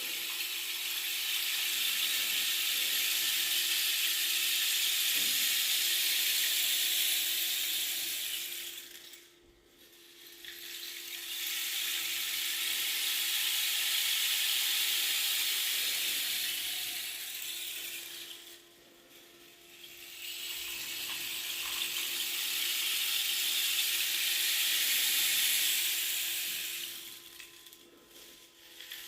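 Rain stick turned over again and again: three long cascades of pebbles pouring down inside the tube as a steady hiss, each about eight seconds, with a short break between as it is flipped. A faint steady hum sits underneath.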